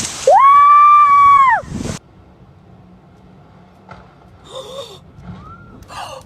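A person's shrill scream, one held high note lasting about a second and a half, over wind noise. It then cuts to a quiet stretch with only a few faint clicks and brief high sounds.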